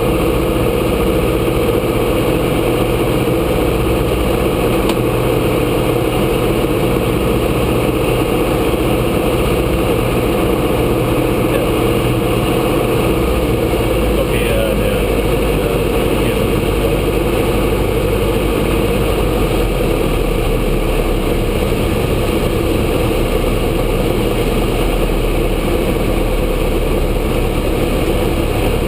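Grumman AA-5A Cheetah's four-cylinder Lycoming engine and propeller running steadily in flight, a loud unchanging drone.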